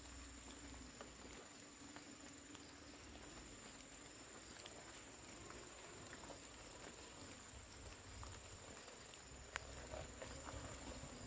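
Near silence: faint background hiss with a thin steady high tone, scattered light clicks and one sharper tick near the end.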